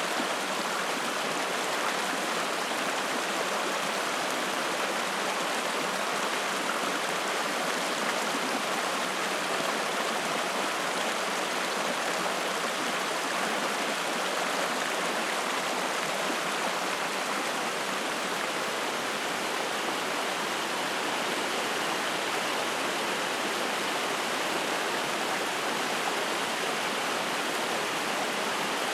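Spring-fed mountain stream flowing and splashing: a steady, even rush of water with no low rumble.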